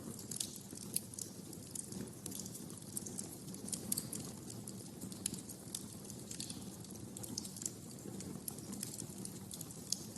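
Wood fire crackling in a fireplace: irregular sharp pops and snaps over a low, steady rumble from the burning fire.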